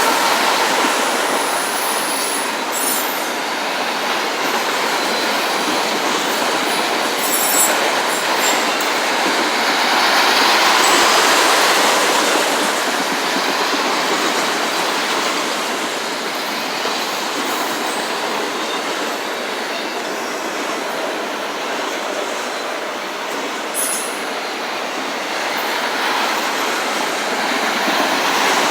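Autorack freight cars rolling past on the rails, a steady loud rush and rattle of wheels on track, with a few short high-pitched wheel squeaks about 3, 7 and 24 seconds in.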